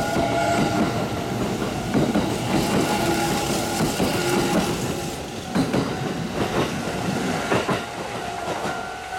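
Kintetsu 50000 series Shimakaze electric train running past the platform, its wheels clacking over the rail joints, with a steady whine in the first second.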